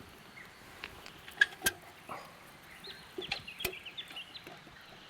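Birds giving short chirps and clucking calls, with a few sharp clicks or snaps, the loudest about a second and a half in.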